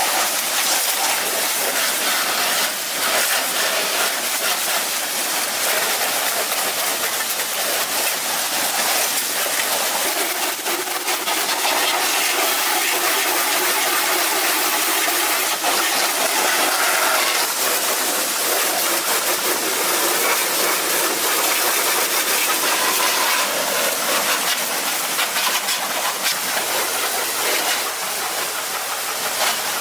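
A loud, steady hissing noise that runs on without a clear engine note or pitch, wavering slightly in strength.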